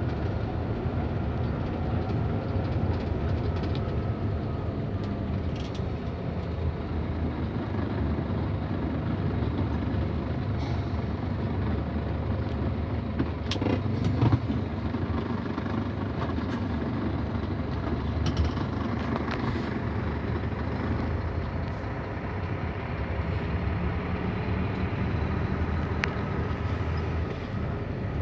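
Scania G380 truck running steadily on the highway, with engine and road noise throughout. A couple of sharp knocks or rattles come about halfway through.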